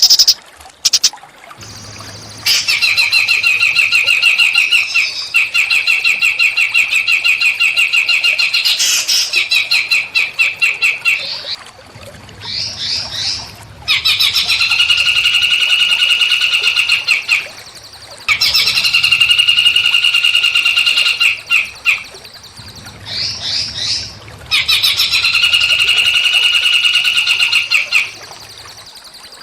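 Small songbird singing long, rapid trills, four phrases of several seconds each, with short quick sweeping notes between them: recorded song played as masteran to teach caged songbirds.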